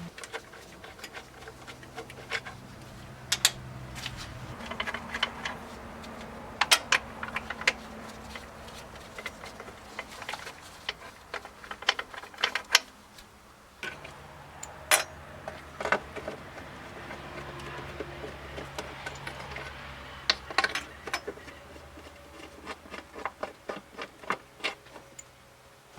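Scattered metallic clicks, taps and clinks of hand tools and parts being handled during valve cover removal on a Jeep Cherokee XJ engine, irregular and separate rather than in a steady rhythm.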